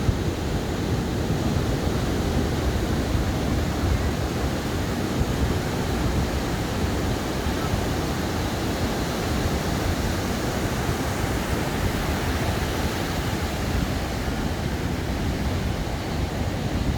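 Ocean surf on a sandy beach: a steady rushing wash of waves with a deep rumble underneath.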